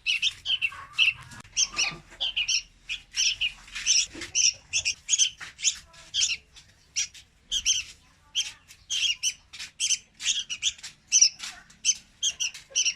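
Young red-whiskered bulbul calling: a fast, unbroken run of short, high chirps, several a second.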